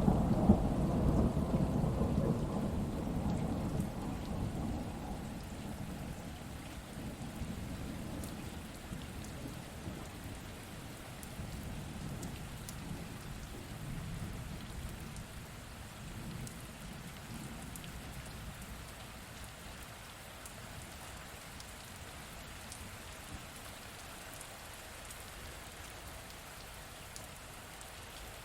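Thunderstorm: a roll of thunder rumbles loudly at the start and slowly dies away over several seconds, with a weaker rumble around the middle, over steady rain.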